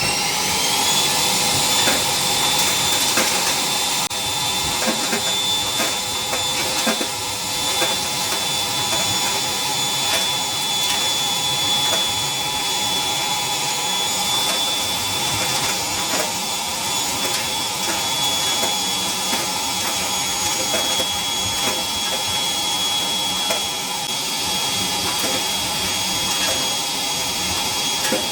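Parkside PWDA 20 Li A2 cordless wet & dry vacuum cleaner's motor finishing its spin-up about a second in, then running with a steady high whine. Small pieces of brick debris rattle and click as they are sucked up through the hose.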